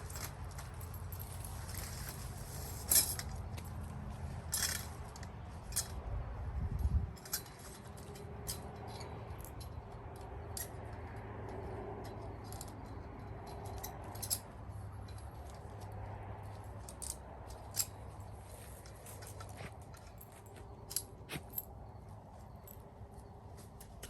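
Irregular light clicks and clinks, as of small hard objects being handled, over a low steady rumble that fades about seven seconds in.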